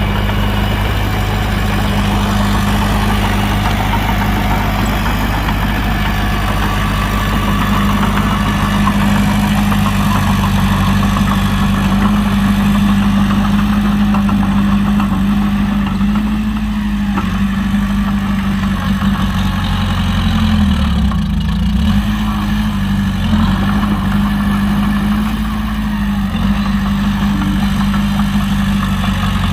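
Heavy earthmoving diesel engine running steadily, its pitch dipping briefly a few times about two-thirds of the way through.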